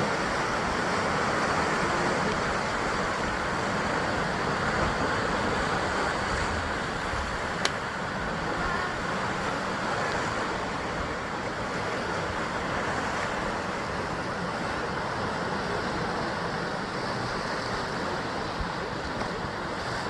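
Sea waves surging and washing against the basalt columnar-joint cliffs of a rocky coast, a steady rush of surf that eases slightly after the first few seconds. A single sharp click about eight seconds in.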